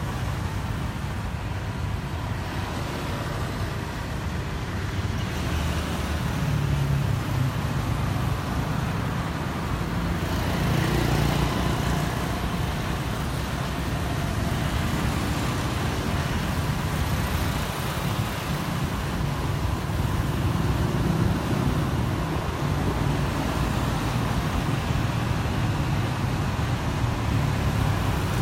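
Road traffic: car engines running with tyre and road noise, a steady drone that swells a little in level now and then.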